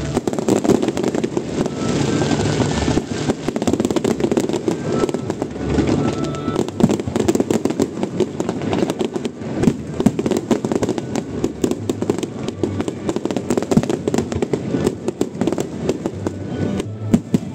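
Fireworks bursting overhead in a dense barrage: rapid crackling and popping from many shells and crackle stars going off at once.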